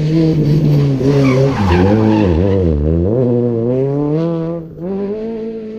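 Rally car braking into a corner, engine revs falling and dipping through downshifts with tyres skidding, then accelerating hard out of it, revs climbing steeply, with a sharp gearshift break about three-quarters of the way through.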